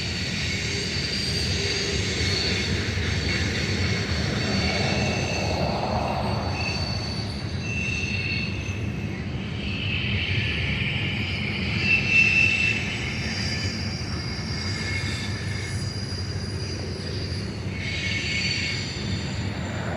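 Freight cars of a BNSF manifest train rolling past with a steady rumble, and high-pitched wheel squeal that comes and goes, briefly loudest about twelve seconds in.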